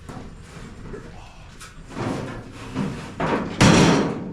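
Heavy metal clatter ending in a loud thud about three and a half seconds in, as a steel riding-mower deck is handled and set down.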